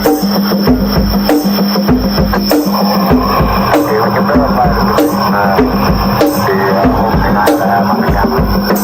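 Drum solo on a drum kit: a steady beat of bass drum and sharp, wood-block-like hits. Wavering animal-like calls from a jungle sound effect rise over the beat in the middle.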